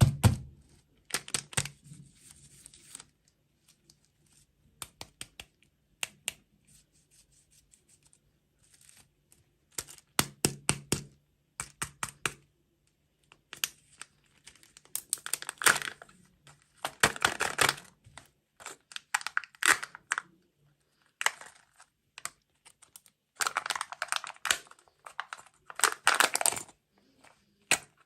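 Plastic wrappers and packaging being crinkled and torn in irregular bursts, mixed with many sharp clicks and taps.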